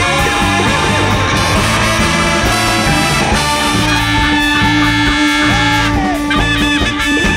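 Large jazz band playing live: horns over electric guitar, bass and drums, with one long held note through the middle.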